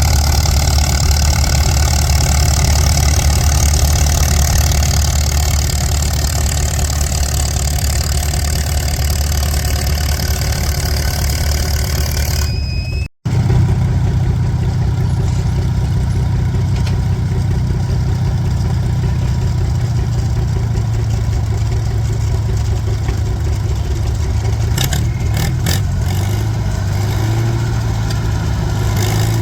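Antique farm tractor engine running steadily, as at a stone boat pull. The sound breaks off for an instant about halfway through, then the engine continues, followed by a few short clicks near the end.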